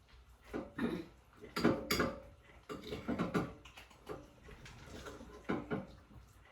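Irregular clinks and scrapes of a utensil against a dish as cat food is served out, a few short knocks at uneven intervals.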